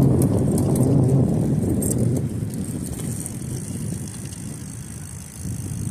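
Low rumbling ride noise from cycling on a folding bike beside a road, with road traffic and wind on the microphone. It is loudest for the first two seconds, then eases off.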